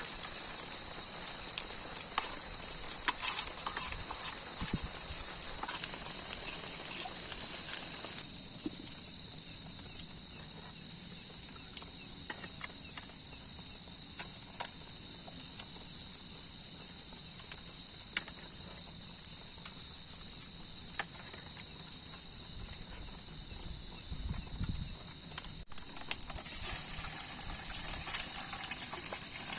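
Steady high-pitched chorus of forest insects, with scattered light clicks and knocks, more of them in the first few seconds and near the end.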